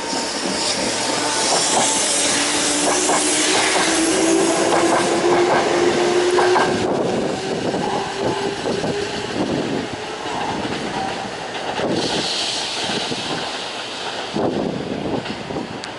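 Electric train running on the rails, wheels clacking over the joints, with a whine that rises slowly in pitch through the first half. The sound changes abruptly a few times.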